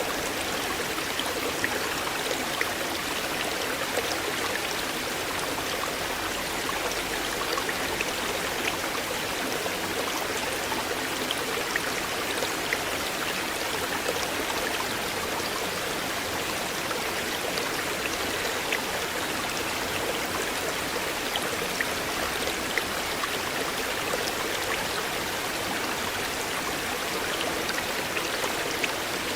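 River water flowing steadily, a constant rush of moving water with scattered small splashes and drips.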